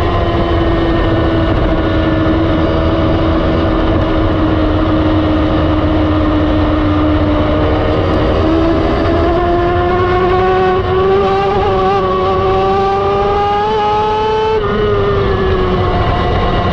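Sport motorcycle engine at track speed, heard from onboard a 1000 cc bike with wind rushing on the microphone. The engine note holds nearly level, then rises steadily in pitch as the bike accelerates from about eight seconds in, and drops sharply near the end at a gear change or throttle-off.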